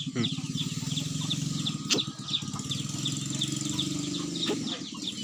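Rapid, repeated high chirping of small birds over a low steady hum.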